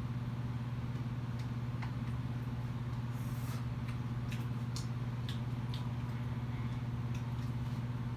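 A car engine idling steadily, a low even hum, with a few faint scattered clicks and rustles over it.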